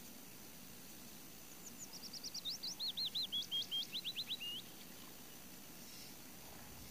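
A songbird sings one fast phrase of short repeated notes that steps down in pitch, lasting about three seconds and starting about a second and a half in, over a faint steady background hiss.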